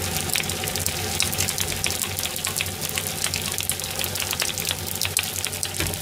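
Fried rice sizzling in a wok, a steady hiss full of small crackles and pops, with a low steady hum underneath.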